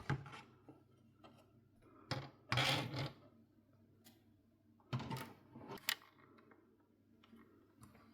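Scattered clicks and short scraping handling noises of hard plastic and small metal parts, a few seconds apart, as a console is taken apart. The longest scrape comes about two and a half seconds in, and a shorter one about five seconds in.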